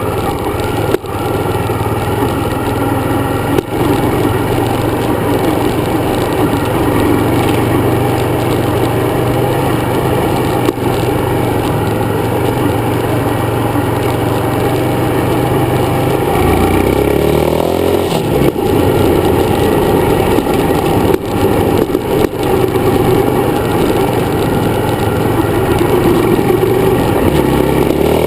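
Dirt bike engine running steadily under way. Its pitch dips and climbs again about two-thirds of the way through, as the engine speed changes.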